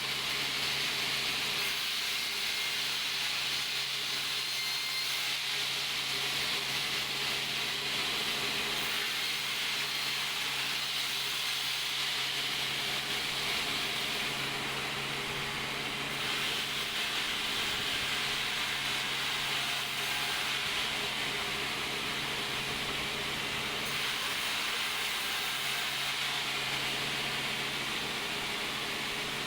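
Sawmill machinery running steadily: a continuous hiss over a low, even hum, with no distinct cuts or impacts.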